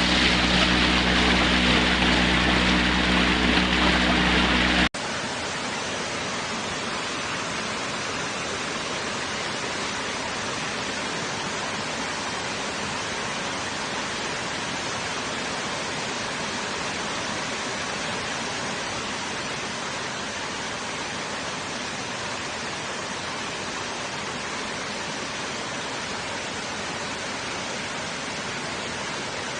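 Steady, even rush of water, after an abrupt cut about five seconds in. Before the cut, a louder steady motor drone with a low hum runs over the water.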